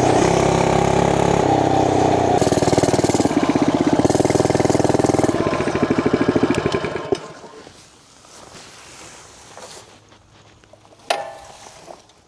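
Small gas mini bike engine running, then slowing so that its separate firing pulses can be heard, and shutting off about seven seconds in. A single sharp knock comes near the end.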